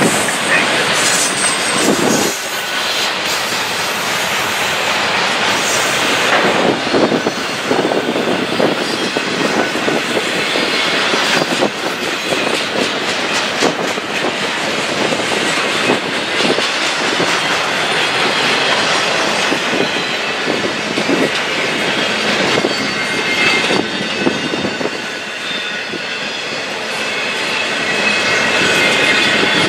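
Double-stack intermodal freight cars of a Norfolk Southern train rolling past at speed, a steady rumble and rush with wheels clacking irregularly over rail joints. Now and then a thin wheel squeal rises over it.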